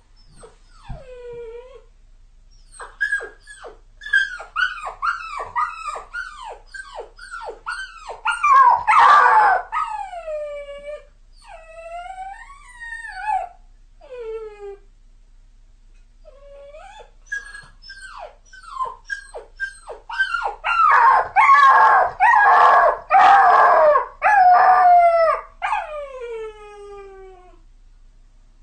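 A puppy whining and crying: runs of short, high whines that each drop in pitch. The whines build twice into louder, rougher howling cries that slide downward, once about a third of the way in and again over the second half. There is a short pause in the middle.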